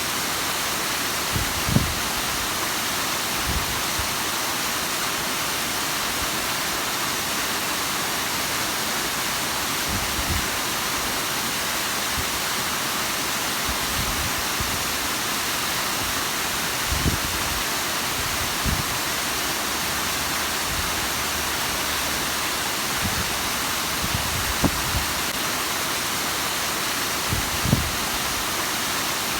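Bigăr waterfall's water falling in a steady, even rush, with a few brief low thumps here and there.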